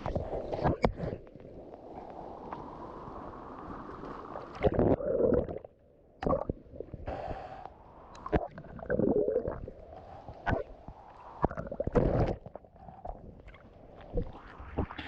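Sea water sloshing and gurgling around a GoPro camera as it dips in and out of the surf, heard muffled as a run of irregular splashes with short quiet gaps.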